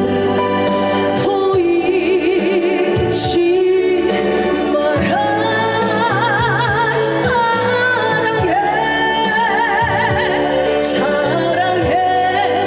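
A woman singing a trot song live over a backing track with a steady beat. She holds long notes with a wide vibrato.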